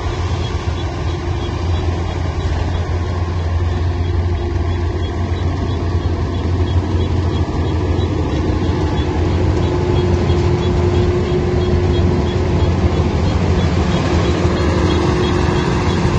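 Diesel engine of heavy farm machinery running steadily with a deep hum, a steady whine that strengthens a little about halfway through, and a faint regular high ticking.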